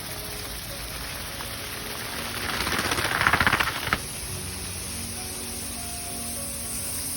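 Rotating garden sprinkler (PS40) spraying water: a steady hiss, swelling into a louder, rapidly pulsing spray as the jet sweeps past about two and a half seconds in, then dropping back suddenly about a second later.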